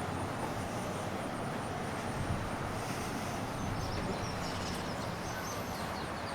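Steady outdoor background noise: an even low rumble with a hiss over it, with no distinct events.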